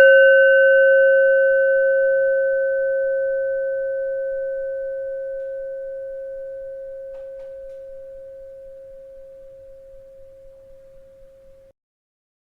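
A bell struck once, ringing with a clear tone and a few higher overtones that fade slowly for over eleven seconds before cutting off abruptly.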